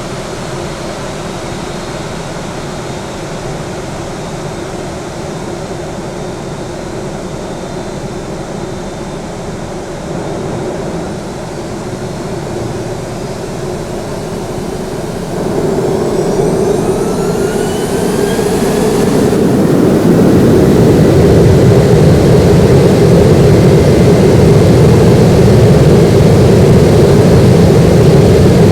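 Boeing 737-800's CFM56 turbofan engines running steadily at low power, then about halfway through spooling up with rising whines to takeoff thrust, loud and steady from then on.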